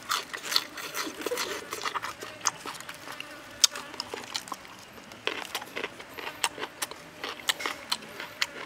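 A person chewing a mouthful of raw green onion and squid, with many irregular wet clicks and smacks.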